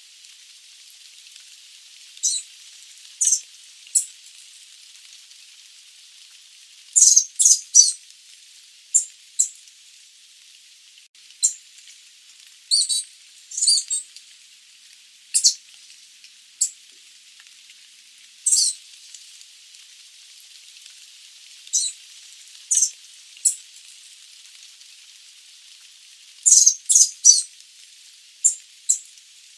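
Sooty babbler giving short, sharp, high-pitched call notes, singly and in quick runs of two or three, at irregular intervals over a faint steady hiss.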